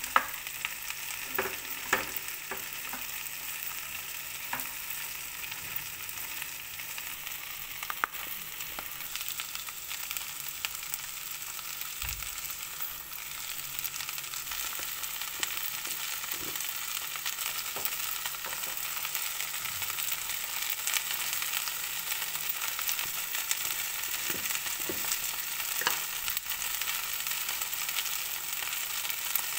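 Chopped okra and onion sizzling as they fry in a non-stick pan. A spatula now and then clicks and scrapes against the pan while stirring.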